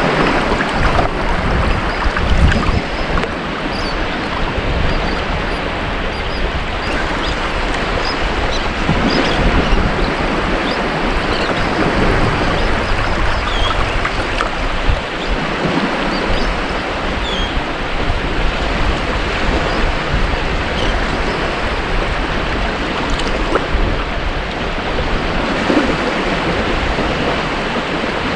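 Ocean surf washing onto a beach: a steady rush of wave noise that swells gently now and then.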